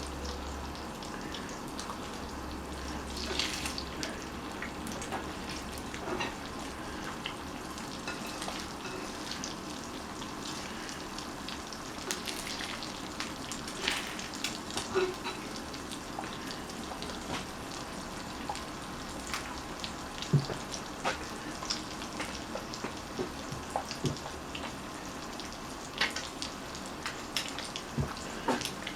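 Egg frying in a pan, a steady sizzle, with scattered clicks and scrapes of a utensil against the pan as the egg is worked.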